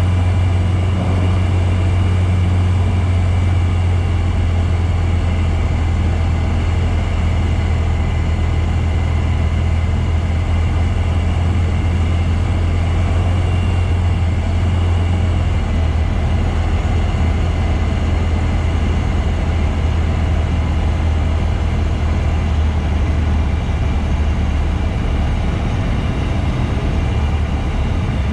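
Bristell light aircraft's engine and propeller, a steady loud low drone, dropping slightly in pitch about halfway through and again near the end.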